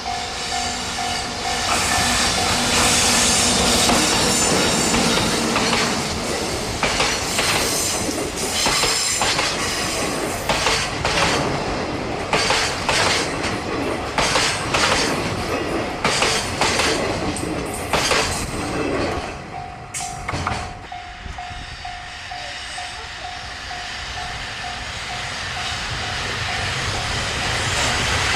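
Freight train wagons rolling past, wheels clattering in quick knocks over the rail joints. A steady high tone sounds at the start and again for the last third, as the train noise drops away and then builds again.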